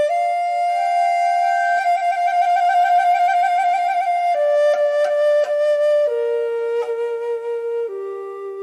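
Chinese bamboo flute playing a slow solo melody of long held notes. A fluttering trill comes in the middle, and the line steps down to lower notes towards the end.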